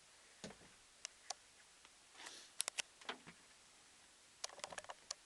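Faint, irregular clicks and light knocks, bunched in two clusters: one about halfway through and another near the end.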